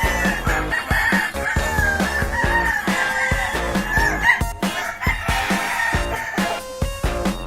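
Roosters crowing, long wavering calls that overlap and fade out near the end, over background music with a steady beat.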